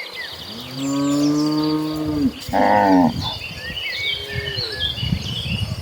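Cattle mooing: one long, low moo starting about half a second in, then a shorter, higher and louder moo around two and a half seconds in.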